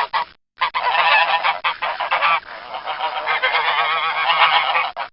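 Domestic geese honking, several calls overlapping, with a short break about half a second in.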